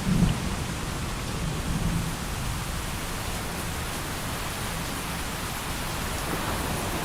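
Steady rain falling, an even hiss, with the tail of a low thunder rumble dying away in the first second or two.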